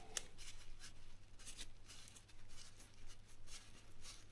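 Faint scratching and rubbing in short strokes, as a cloth wipes grit off a wheel's dust seal and spacer.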